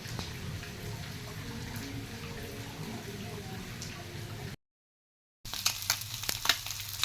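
Liquid bubbling steadily in a cooking pot. After a second of silence, food sizzling in hot oil with rapid crackling pops.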